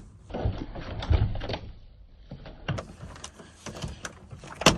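A door being opened and someone stepping inside: irregular low thumps and rustling, with a sharp click near the end as the loudest sound.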